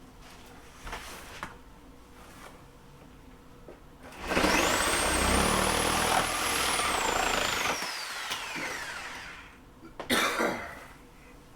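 A power saw starts up and cuts for a couple of seconds, then its motor winds down with a long falling whine. A brief clatter of knocks follows near the end.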